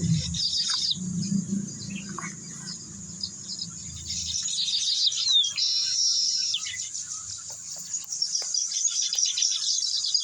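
Many small birds chirping and twittering in rapid, overlapping high calls, with a low rumbling noise underneath for the first four seconds or so.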